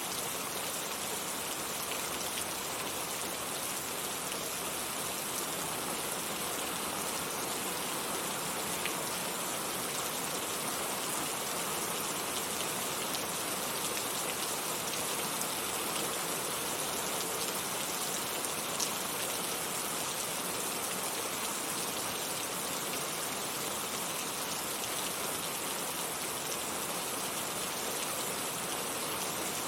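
Heavy rain falling steadily, an even dense hiss of drops on surfaces with an occasional single drop standing out, near 19 seconds in.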